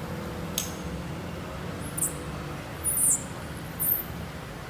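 Windshield wipers sweeping a wet windshield over a steady low engine hum. There are four short, very high squeaks about a second apart and a click near the start.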